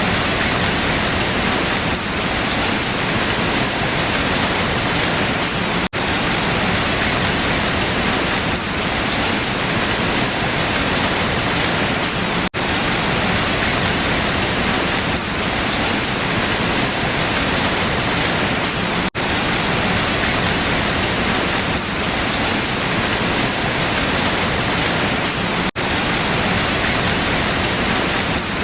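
Steady rain falling on leaves, a dense even hiss. It cuts out for an instant about every six and a half seconds.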